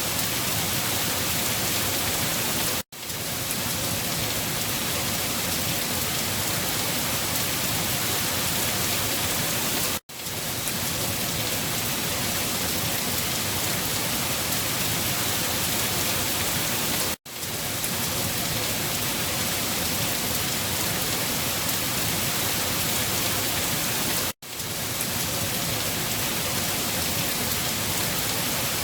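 Steady, dense rainfall hissing evenly. It drops out for a split second four times, about every seven seconds, and comes straight back each time.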